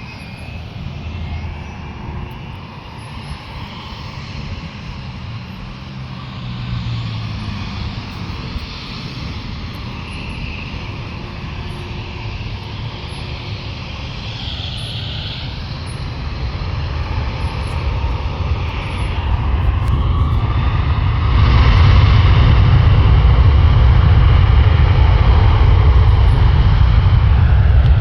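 Boeing 757 jet engines running up for takeoff. A deep rumble grows steadily louder and swells sharply about twenty seconds in, with a faint whine riding on top.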